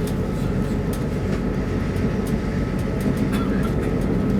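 Arlanda Express electric train running, heard from inside the carriage: a steady low rumble with a few faint ticks now and then.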